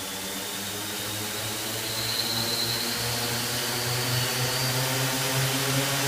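Multirotor drone propellers and motors whirring steadily as the drone lifts off and hovers, with a faint high motor whine; the hum rises slightly in pitch and grows louder as it goes.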